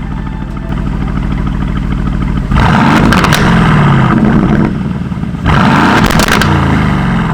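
2020 Aston Martin Vantage's 4.0-litre twin-turbo V8, on a full Quicksilver straight-pipe exhaust, idling and then revved hard twice. Each rev rises and falls in pitch, with crackles near the top of the rev.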